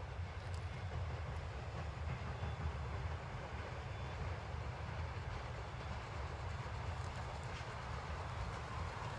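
Narrow-gauge train rolling on the rails: a steady low rumble with a few faint clicks.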